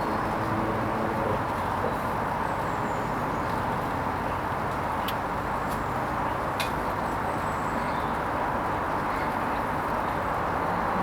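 Hoover Vision HVP16 washing machine running on its Silks 30 programme: a steady noise with a low hum that fades out in the first second or so, and two faint clicks around the middle.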